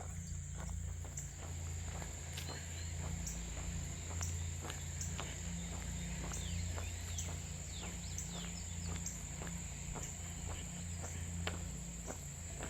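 Footsteps on a paved path, about two a second, over a steady high-pitched chorus of insects.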